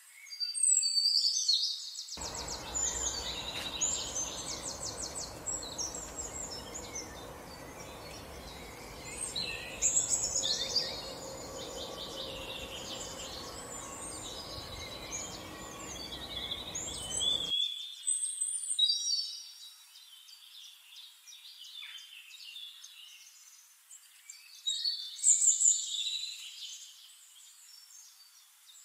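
Songbirds singing, with rapid trills and chirps coming in bursts every few seconds. A steady background noise comes in about two seconds in and cuts off suddenly at about seventeen seconds.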